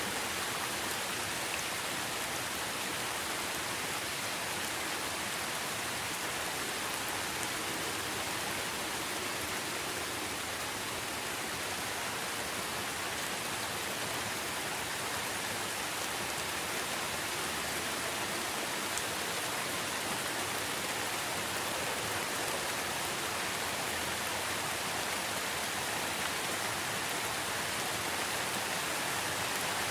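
Steady, even rain falling, a dense hiss with no distinct drops or pauses.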